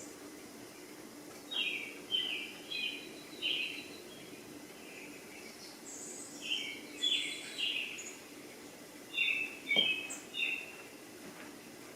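Birds chirping: three clusters of short, quick chirps, each of a few notes, over a faint steady low hum, with one brief knock about ten seconds in.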